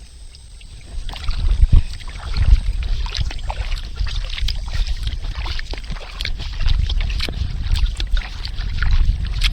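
Kayak paddling on calm water: the paddle blades dip and pull, with a steady run of small splashes and drips, over a low rumble.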